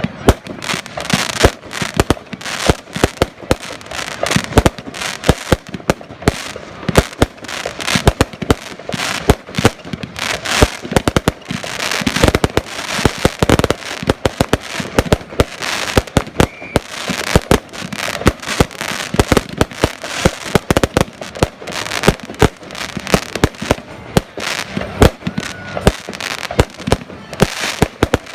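Fireworks display: a dense, unbroken barrage of sharp bangs and crackling pops, many each second.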